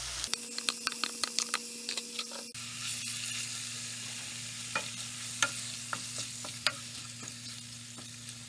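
Marinated goat liver pieces sizzling in hot oil in a non-stick pan. Rapid clicks and taps come in the first couple of seconds as the pieces drop in, then scattered taps as a wooden spatula spreads and stirs them.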